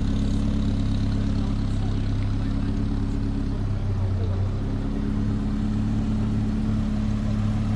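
A vehicle engine running steadily close by, with a slight change in its note about four seconds in.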